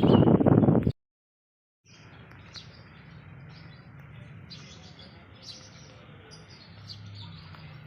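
A loud rushing noise that cuts off abruptly about a second in. After a brief silence, small birds chirp again and again over a low steady hum.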